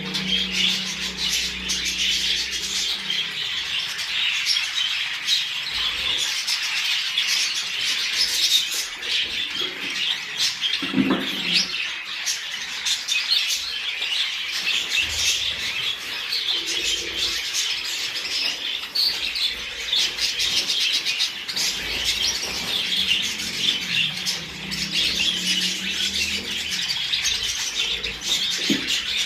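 A flock of budgerigars chattering and chirping continuously.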